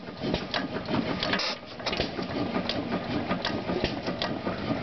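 6 HP Woodpecker antique hit-and-miss gas engine running: a steady mechanical clatter broken by sharp clicks at irregular spacing.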